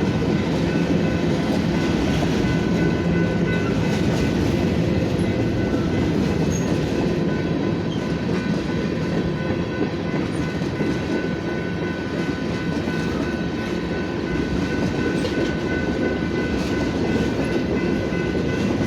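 Freight cars of a BNSF mixed freight, hoppers and box cars, rolling past at steady speed: a continuous rumble and clatter of steel wheels on the rail, with a thin steady high ringing tone held above it.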